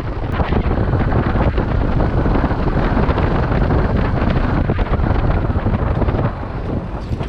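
Heavy wind rushing and buffeting over the microphone on a moving motorcycle, mixed with road noise. It swells over the first second and eases near the end.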